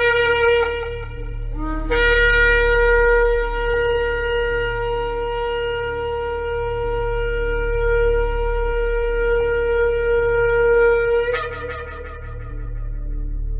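Shofar blasts. A blast ends about a second and a half in, and a brief lower note follows. Then comes a long, steady note held for about nine seconds, which breaks off with a short crack near the end.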